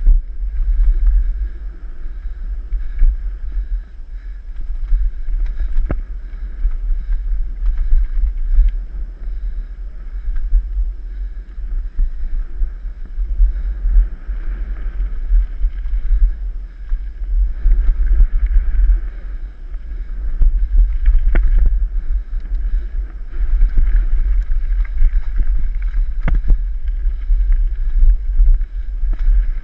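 Wind buffeting the microphone of a camera riding along on a mountain bike, a loud low rumble that swells and eases, with a few sharp knocks from the bike over rough trail.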